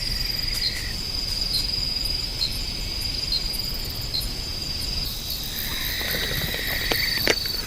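Night insects chirring in a steady, high-pitched trill, with a lower trill that fades out about a second in and comes back for a couple of seconds near the end.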